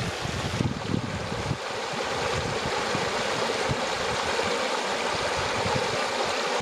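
Stream water flowing in a steady rush, with wind buffeting the microphone at times, most in the first second or so.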